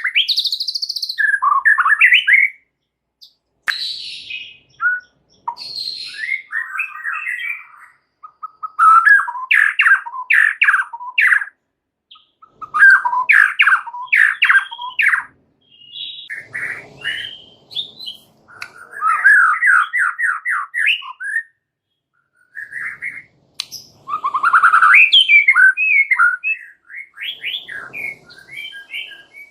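White-rumped shama singing a varied, energetic song in phrases of one to three seconds separated by short pauses, with fast runs of repeated notes and quick up-and-down glides.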